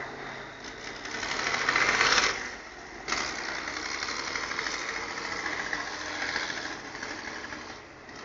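Competition trial truck's engine running hard. It swells to its loudest about two seconds in, drops away briefly, then picks up again abruptly about three seconds in and runs on steadily.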